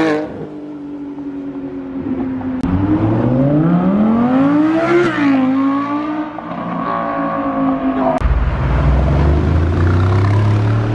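Car engines as cars drive out: one engine accelerates, its pitch climbing for about two seconds and then falling back, and about eight seconds in a deeper, louder engine rumble comes in.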